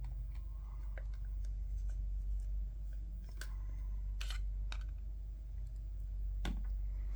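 A few short, sharp clicks and rustles of small plastic headset parts and wire being handled, spread over several seconds, over a steady low hum.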